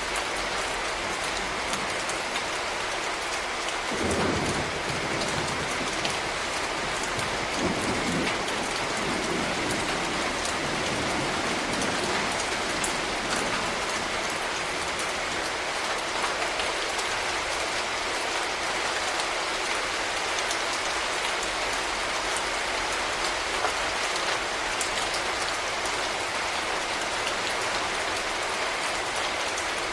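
Steady rain falling as a dense, even patter of drops. A brief low rumble comes in about four seconds in, and another a few seconds later.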